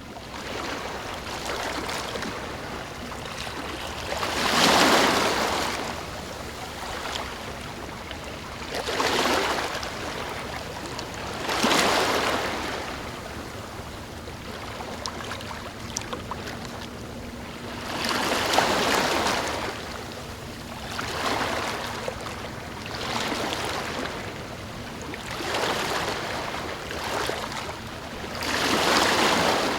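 Ocean waves surging and receding, a steady wash of surf that swells louder with each wave every few seconds.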